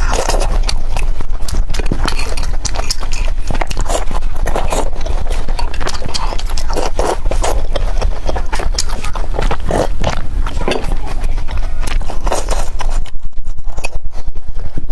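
Close-miked chewing of youtiao (Chinese fried dough sticks), a dense run of crisp crackling and clicking mouth sounds with no pause.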